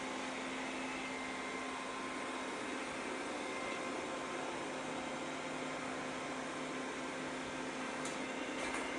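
Lenovo robot vacuum cleaner running, a steady whirring motor hum. A couple of faint clicks come near the end.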